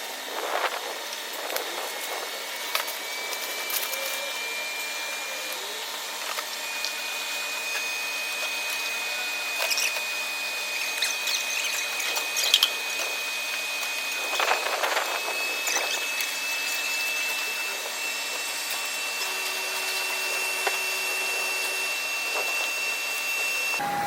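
Power tool running in a car body repair shop, giving a steady high whine that slowly rises in pitch, with scattered clicks and knocks.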